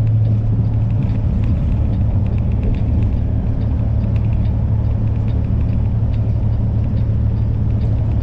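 Semi truck's diesel engine running with a steady low drone, with road rumble, heard from inside the cab while driving. The drone eases slightly after the first second.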